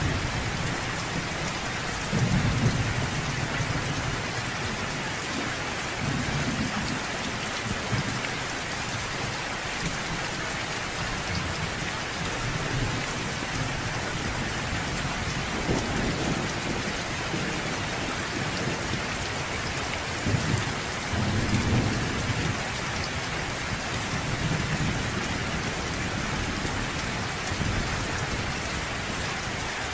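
Steady rain with repeated low rumbles of thunder. The strongest rumbles come about two seconds in and again around twenty-one seconds.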